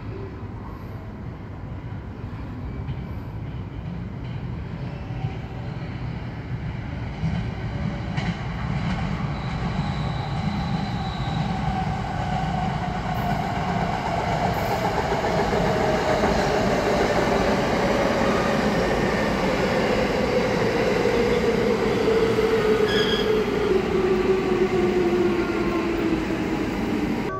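Electric commuter train pulling into the platform and braking, getting louder as it comes near. Over the low rumble of the wheels, its motor whine falls steadily in pitch as it slows.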